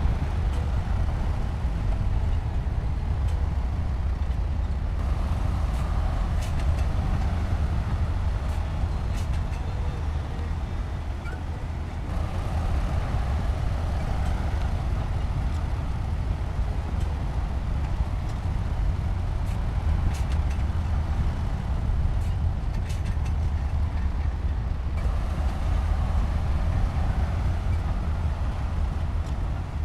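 Heavy diesel construction machinery running steadily with a deep rumble. Its note swells three times, about 5, 12 and 25 seconds in, with scattered short clicks along the way.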